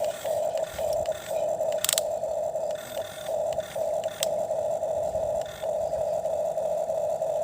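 Small electric motor of a toy excavator whirring steadily, with brief dips every half second or so. Two sharp clicks come about two and four seconds in.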